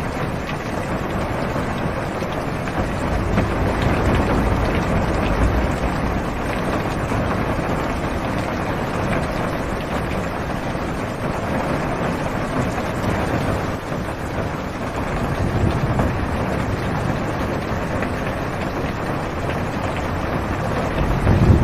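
Heavy rain on a car's roof and windows heard from inside the cabin, a steady hiss, with low rumbles of thunder swelling and fading a few times.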